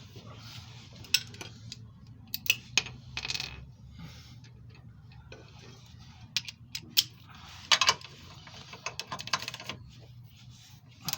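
Scattered sharp metallic clinks and taps of hand wrenches and sockets on steel as they are fitted to the engine-mount bolt and nut. A faint steady hum lies underneath.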